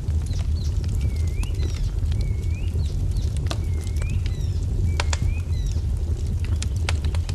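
Wood fire crackling, with scattered sharp pops over a steady low rumble, while a small songbird repeats a short swooping chirp about once a second, with a few higher chirps mixed in.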